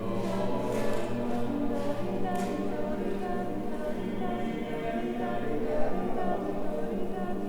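A group of voices singing together without instruments, holding long notes in several pitches over a steady low note.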